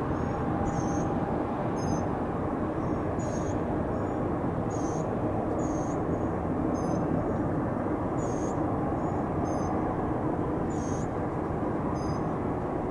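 Steady rumble of distant jet aircraft around the airfield, even in level without a rise or fall, while a bird chirps repeatedly in short high notes about every second or two.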